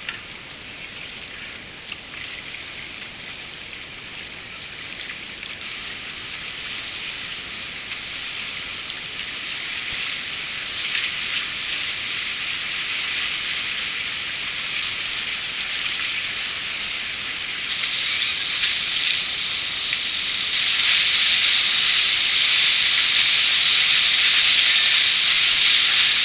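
Rushing river water, a steady hiss that grows gradually louder over the stretch.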